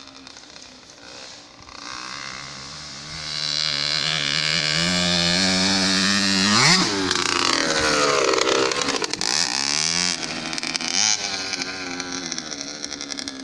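Motocross bike engine getting louder as it approaches, passing close about halfway through with a sharp drop in pitch, then revving several times as it rides on and fades somewhat.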